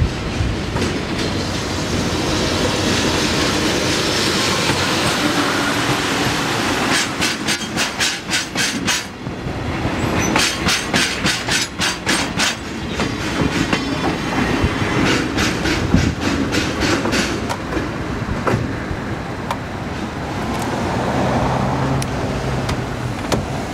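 Diesel locomotive passing close by, hauling an oversized freight load: a steady engine sound, then the wagons' wheels clicking over the rail joints in quick clusters as they pass. The train then dies away, leaving a steady low hum near the end.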